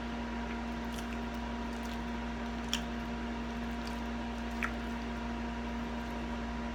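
Wet chewing and a few faint lip smacks and clicks of someone eating barbecued ribs, over a steady electrical hum.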